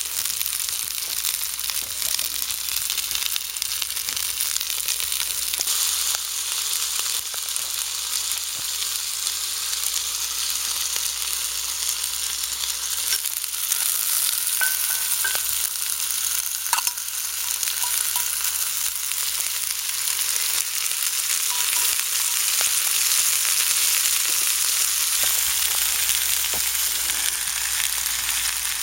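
Chicken thigh frying in a pan, a steady sizzle with a few small pops.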